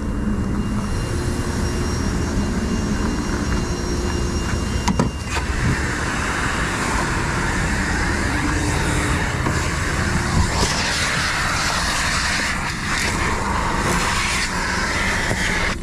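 Car wash water spray hissing against a car, starting about five seconds in, over a steady low rumble.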